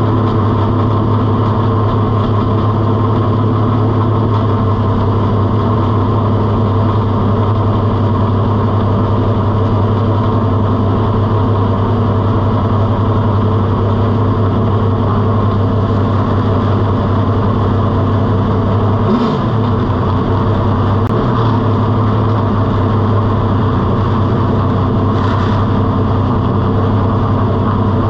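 Race car engine idling steadily and loudly. Past halfway the idle dips briefly twice, and a short hiss comes near the end.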